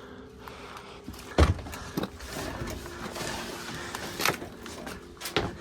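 A heavy knock about a second and a half in, then rustling and scraping with a few more knocks, as someone handles things and moves about.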